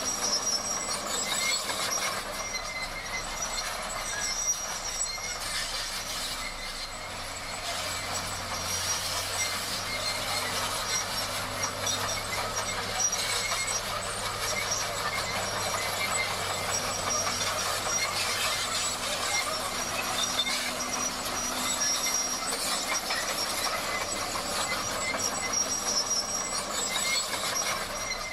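Komatsu D58 crawler bulldozer at work: its steel tracks clatter and squeal continuously over a faint engine hum.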